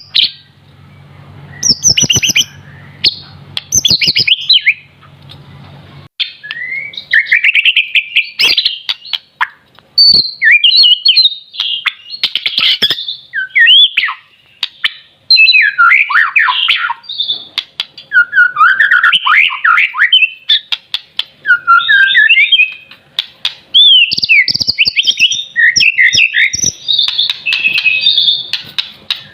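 A young white-rumped shama (murai batu) singing loudly in rapid, varied phrases of whistles and trills, broken by short pauses. A low hum runs under the first few seconds, with scattered sharp clicks throughout.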